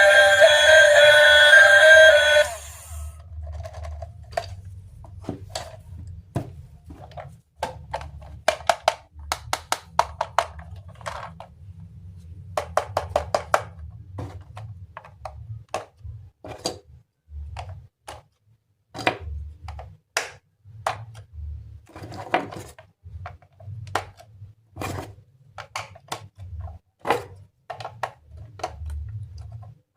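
Background music for about the first two seconds, then it stops and a long irregular run of small hard clicks and taps follows: plastic toy train parts being handled and snapped together, over a faint low hum.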